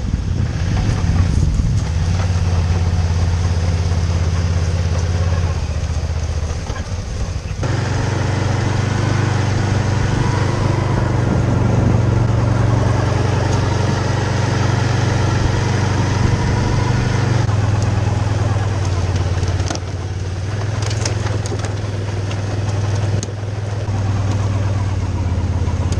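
Racing quadcopter's four brushless motors (EMAX 2205 2300KV) and propellers running in flight, picked up by the onboard action camera along with wind. The pitch holds steady for stretches and shifts a few times as the throttle changes.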